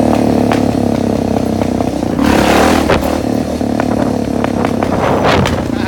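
Suzuki DR650's single-cylinder four-stroke engine running steadily under way, with a brief rush of noise a little over two seconds in.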